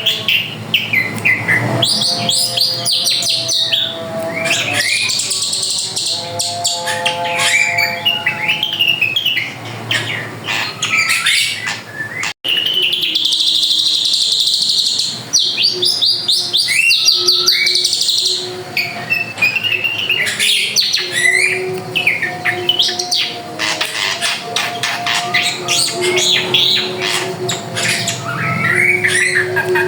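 Drongo (srigunting) singing a loud, varied song of whistles and fast chattering phrases, with a brief break about twelve seconds in.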